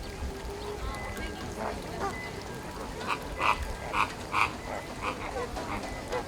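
Flamingos calling: a run of short, goose-like honks, about two a second, loudest a little past the middle.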